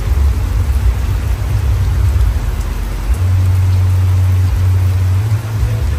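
Deep, very loud sub-bass from a large outdoor 'horeg' sound system, held in long steady notes that shift pitch. An even hiss like rain lies over it.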